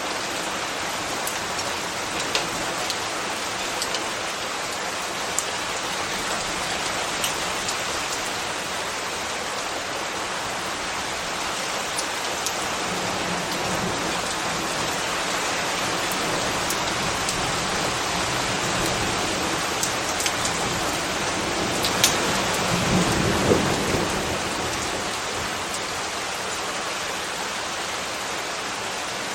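Steady rain falling, with scattered sharp drip ticks on a hard surface. A low rumble builds in the middle, peaks with a couple of louder cracks a little past twenty seconds, then fades back under the rain.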